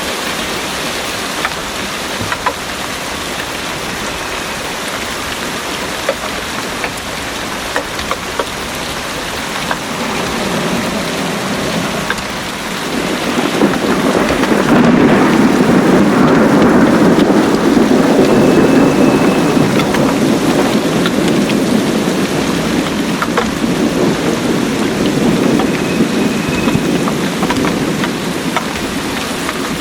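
Heavy rain falling steadily, with scattered drop ticks. About thirteen seconds in, a long low roll of thunder swells up and slowly fades over some fifteen seconds under the rain.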